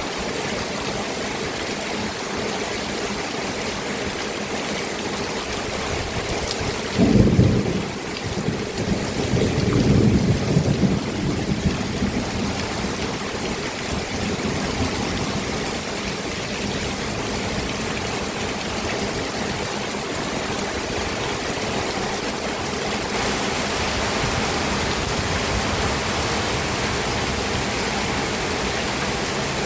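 Steady rain falling, with a clap of thunder about seven seconds in that rumbles on for several seconds before the rain alone carries on.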